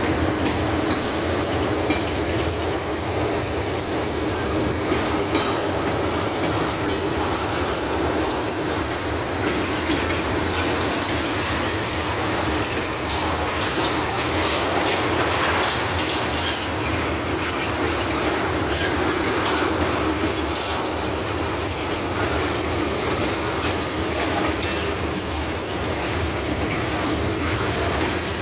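Freight train boxcars and tank cars rolling past: a steady rumble of steel wheels on the rails with clickety-clack over the rail joints.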